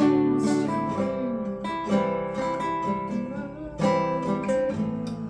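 Guitar being played: chords struck roughly a second apart and left to ring, with picked single notes and short slides between them.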